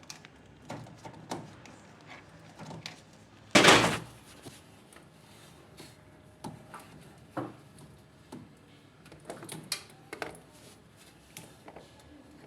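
Scattered clicks and knocks of things being handled, with one loud bang about three and a half seconds in.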